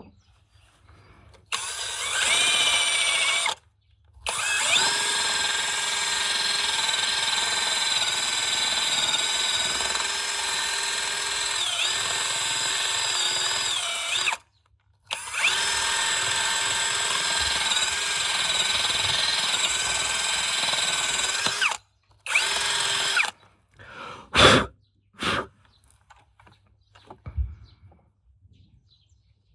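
Handheld electric power tool motor whining at a steady speed, started and stopped in several runs: a short run, a long run of about ten seconds, another of about six, then a few brief blips. Its pitch dips slightly now and then, as if under light load.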